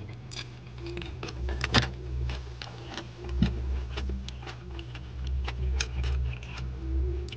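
A person chewing a mouthful of rice, with many small irregular wet clicks and smacks from the mouth.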